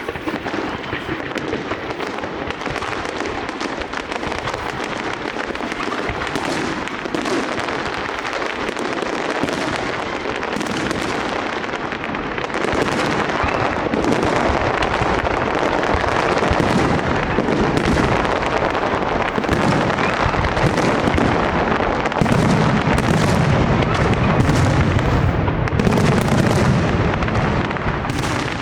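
Castillo night fireworks display in a dense, unbroken barrage of crackles and bangs. It grows louder after about twelve seconds, and deep booms come in over the last few seconds.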